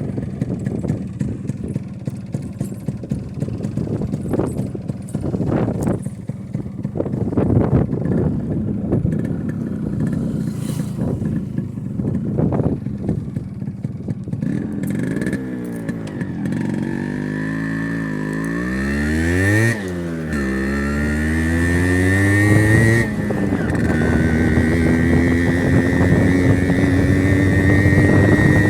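Yamaha RX100's two-stroke single-cylinder engine running, then from about halfway revving up and down several times, its pitch rising and falling, with a steady climb in pitch near the end.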